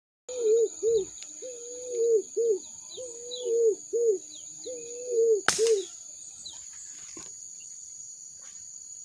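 A bird calling in a run of low, hooked notes, some short and some drawn out before falling away, that stop about six seconds in. A single sharp crack comes about five and a half seconds in, and a steady high insect drone runs underneath.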